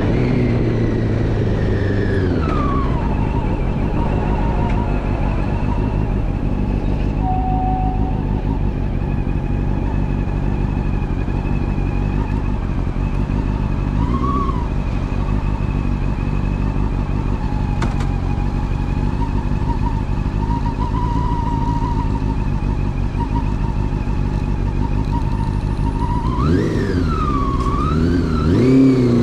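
Honda CB400 Super Four inline-four engine running through a Yoshimura slip-on exhaust. The revs drop over the first few seconds and then hold steady for a long stretch, with one short rise and fall partway through. Near the end the engine revs up and the pitch swings up and down twice.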